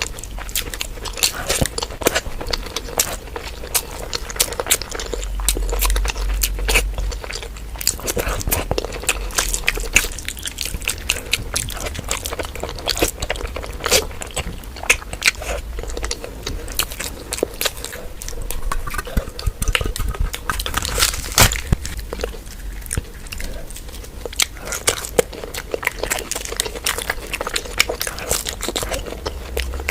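Close-miked eating sounds of a person chewing and biting mouthfuls of mutton fat curry and rice, a dense run of small mouth clicks and smacks.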